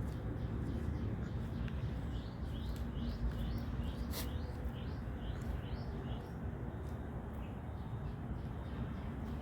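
A bird chirping, a series of short high rising chirps about two a second for several seconds, over a steady low rumble. A single sharp click comes about four seconds in.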